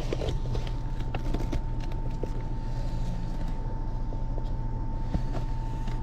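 Small motorcycle engine idling steadily, with a constant thin whine over it, and light clicks and knocks of a coffee cup being wedged into a delivery box.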